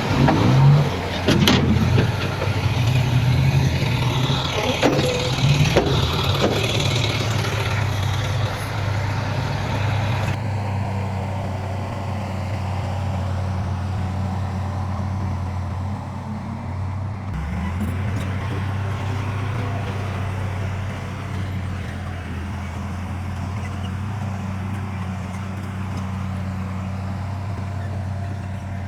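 Heavy diesel earthmoving machinery running steadily at a low, even hum, with clanks and knocks during the first several seconds.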